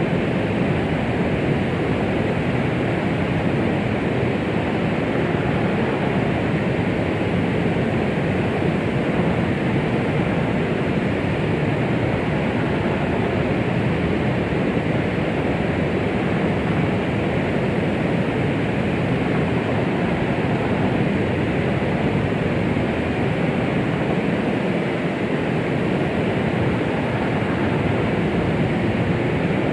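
Steady white-noise track, a womb-like hush for soothing a baby, even and unbroken with no heartbeat or rhythm, weighted toward low and middle pitches with little hiss at the top.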